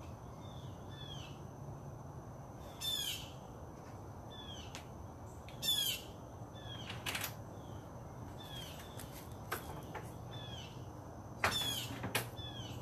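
Birds calling outdoors: many short repeated chirps, broken about four times by louder, harsh squawk-like calls.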